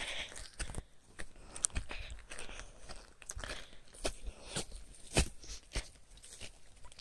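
Footsteps crunching over the forest floor, an irregular run of snaps and crackles.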